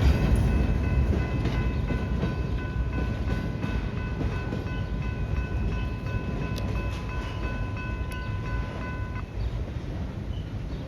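Delaware & Raritan River Railroad freight train rumbling past and fading away. A steady high ringing tone sounds over it and cuts off suddenly about nine seconds in.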